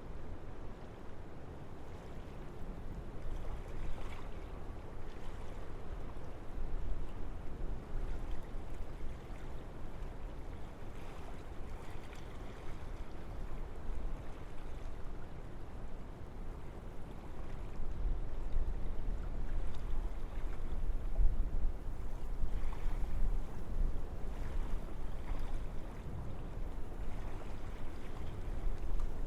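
Wind blowing through forest trees: a steady rushing with a low rumble, swelling in gusts, louder through the middle of the second half.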